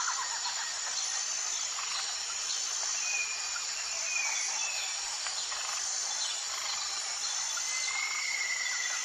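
Forest ambience: a steady, high insect drone with a regularly repeating shrill note, under a few short bird chirps and one longer whistled bird call near the end.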